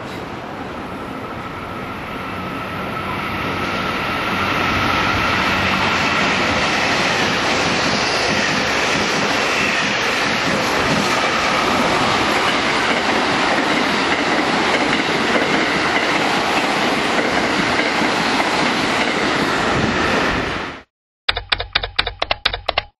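Train running past a station platform, its rail noise swelling over the first few seconds and then holding loud and steady, with wheels clattering over the rails. It cuts off abruptly near the end, and a quick run of short, sharp pitched clicks follows.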